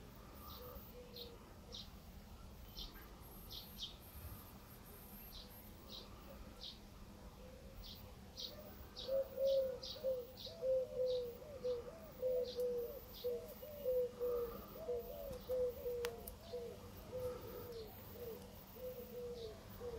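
Birds calling in a garden. Short high chirps repeat about twice a second, and from about eight seconds in a louder run of quick, lower, hooked notes joins them.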